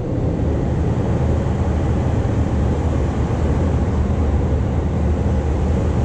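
A Keiyo Line train passing on the bridge, a steady low rumble.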